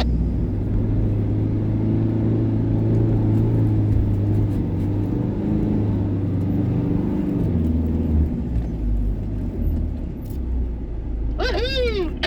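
4WD vehicle's engine running steadily under load, its pitch shifting lower about seven and a half seconds in. Near the end a short voice-like sound rises and falls in pitch.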